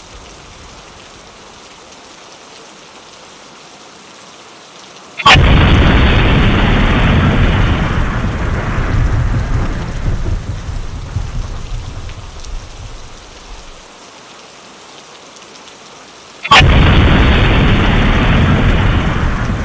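Steady rain, with two thunderclaps: each begins with a sudden sharp crack and then a heavy low rumble. The first comes about five seconds in and fades away over several seconds. The second comes near the end.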